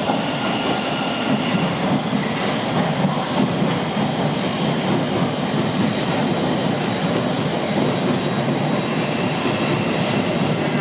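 Thameslink train running along the track: a steady rumble of wheels on rail, with faint high steady tones above it.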